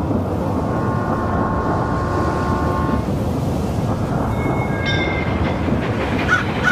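Train running with a steady rumble; its horn sounds a held chord for about two seconds, starting about a second in, and a thinner high tone follows later.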